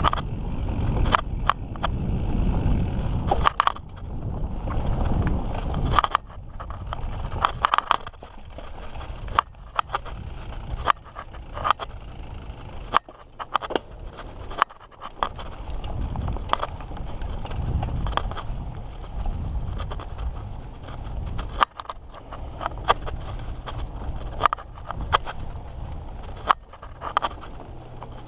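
Mountain bike riding down a dirt trail: tyres scraping and crunching over the ground, with frequent sharp rattles and knocks from the bike over bumps. Wind rumbles on the microphone in swells.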